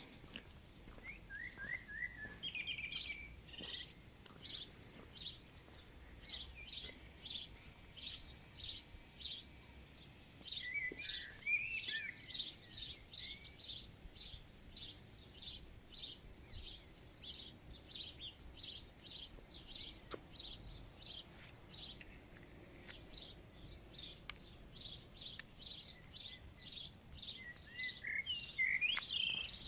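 Birds calling: a short, high call repeated about twice a second throughout, with brief bursts of twittering about a second in, around the middle and near the end.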